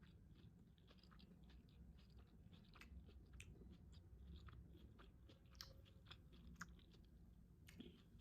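Faint close-up chewing of a vegetable sushi roll, with soft irregular crunches and mouth clicks from the cucumber and carrot filling.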